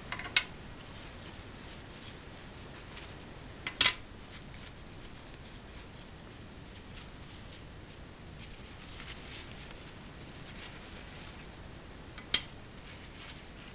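Packaging and small model-kit parts being handled: soft rustling with three sharp clicks, the loudest about four seconds in.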